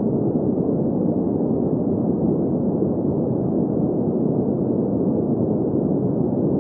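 Steady, dull, low-pitched noise that holds even throughout, with no tones, beat or changes: a synthesized sleep-noise track, its hiss cut off above the upper midrange.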